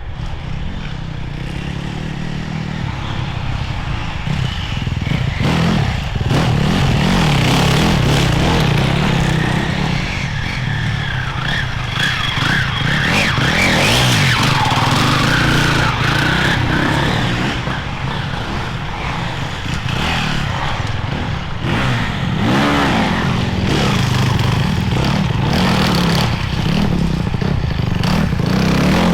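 Enduro motorcycles riding through, engines revving up and down, with scattered sharp clicks and knocks.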